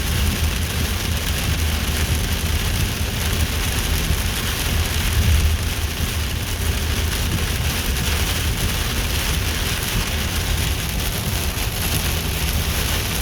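Steady rainfall, an even hiss of rain with a constant low rumble underneath.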